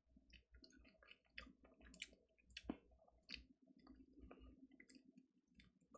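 Faint, irregular crunching and clicking of a person chewing crispy fried chicken close to the microphone.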